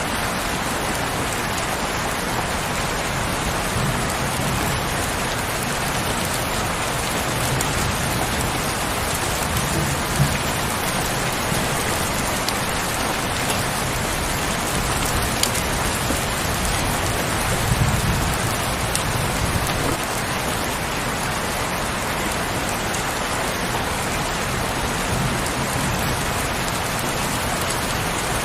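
Heavy rain falling steadily, a dense even hiss of drops with a few sharper single drop hits and some soft low rumbles underneath.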